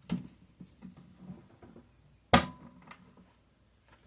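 A few sharp taps and clicks of tarot cards being handled and laid down on a table, the loudest about two and a half seconds in.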